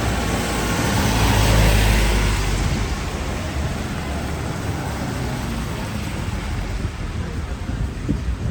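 Road traffic on a street: a vehicle passes close, its rumble loudest about a second and a half in, over a steady hiss of street and wind noise.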